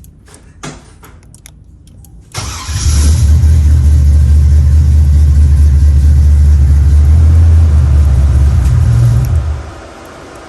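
Car engine starting about two seconds in after a few clicks, running steadily and loudly for about seven seconds, then shut off.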